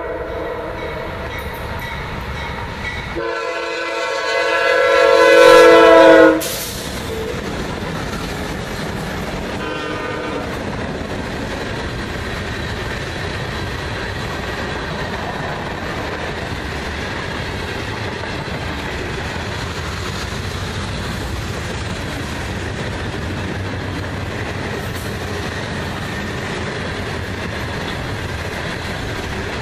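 Freight train horn on a lead GE C40-8W locomotive: one blast ends about two seconds in, then a second, longer blast grows much louder as the locomotive nears, drops in pitch as it passes and cuts off about six seconds in. After that comes the steady rumble and clickety-clack of loaded freight cars rolling past.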